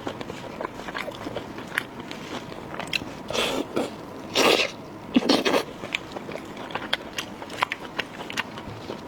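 Close-miked chewing and biting: a run of small wet mouth clicks and smacks, with a few louder, longer bursts of mouth noise near the middle.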